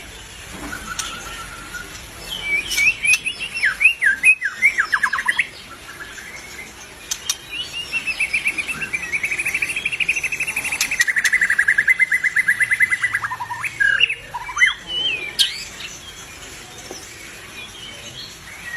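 White-rumped shama in full song. It gives a few quick whistled phrases with sliding notes, then a long, fast trill that steps down in pitch partway through, and ends with a couple of short whistles.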